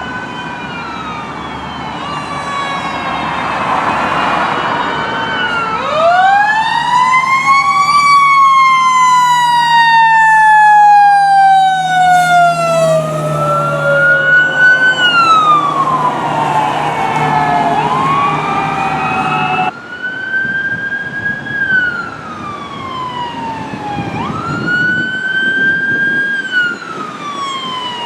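Fire apparatus sirens wailing, each rising quickly and falling slowly in long sweeps, loudest in a long rise and fall through the middle. About twenty seconds in the sound changes abruptly to another wail repeating about every four seconds.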